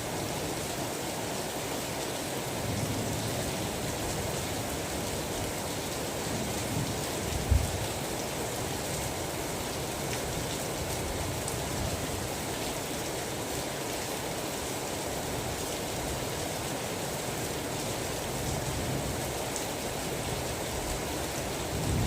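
Steady, even rain, with one short low thump about seven and a half seconds in.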